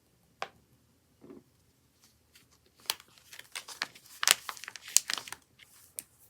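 Crinkly packaging handled and rustled: a single click, then a quick run of sharp crackles and crinkles.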